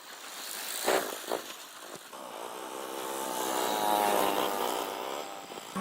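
A motor running and building up in loudness, with a wavering hum in the middle, after two sharp knocks about a second in.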